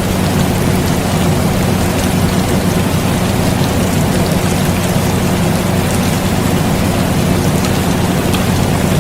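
Steady rain noise layered over the constant low hum of an air conditioner, with scattered faint drop ticks.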